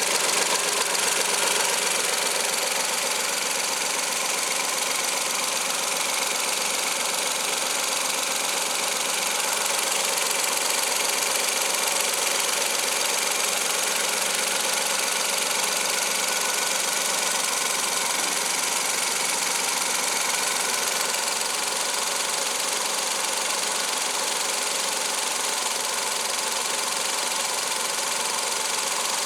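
Suzuki K6A 658 cc three-cylinder engine running steadily.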